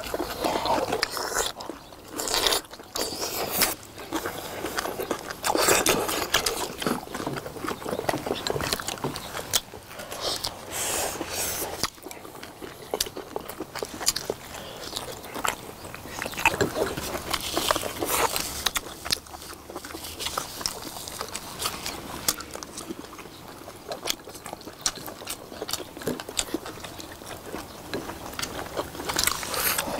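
Several people chewing and biting braised beef short ribs, in an irregular run of close eating sounds with scattered sharp clicks of chopsticks against the dishes.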